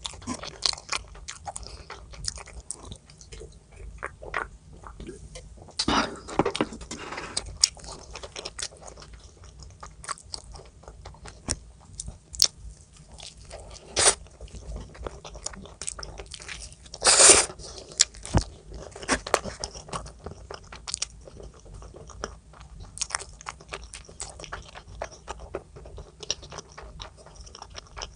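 Close-miked eating: repeated bites and chewing with crisp crunching and smacking clicks. Louder bursts of crunching come about six seconds in and again around seventeen seconds in.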